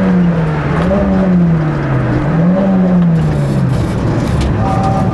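Race car's engine heard from inside the cabin on a hillclimb run, its revs dipping and climbing back three times. Near the end the engine note gives way to a low rumble of road and tyre noise.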